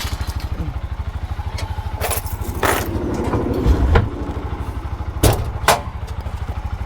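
Keeway RKF 125's single-cylinder four-stroke engine idling steadily, just started from cold to warm up for an oil change. It pulses evenly about a dozen times a second, with a brief louder surge about four seconds in and a few sharp clacks scattered through.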